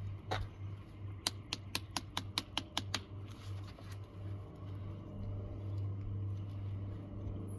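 A quick run of about ten sharp clicks over three seconds, from a stainless Canary cardboard knife scraped and tapped against a ferro rod, with a steady low hum underneath.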